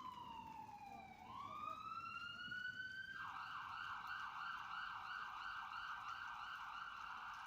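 An electronic siren: a slow wail that falls and rises again, switching about three seconds in to a fast warbling yelp.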